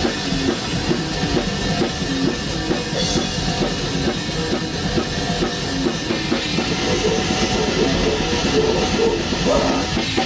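A black metal band rehearsing: a drum kit played fast under a riff of short, changing pitched notes, likely electric guitar.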